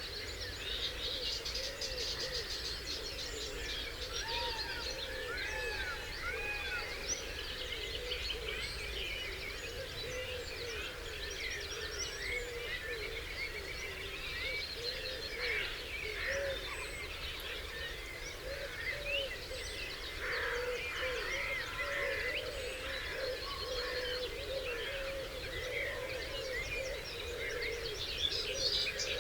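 Dawn chorus of English countryside birds: many songbirds singing at once in overlapping warbles, trills and chirps, with a steady run of lower repeated notes beneath and a faint low background rumble.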